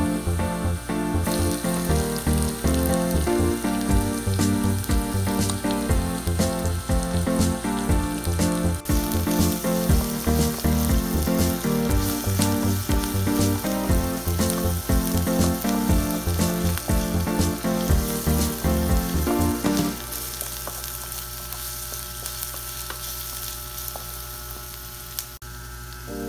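Chopped garlic and onion sizzling in hot oil in an electric pot, with background music with a steady beat laid over it. The music stops about 20 seconds in, leaving only the sizzle.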